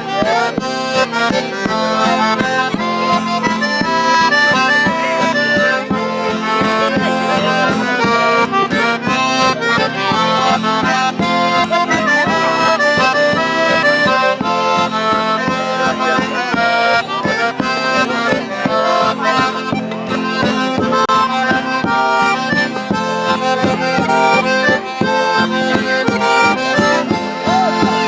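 Accordion playing a fast traditional tune, its notes changing quickly over a steady beat.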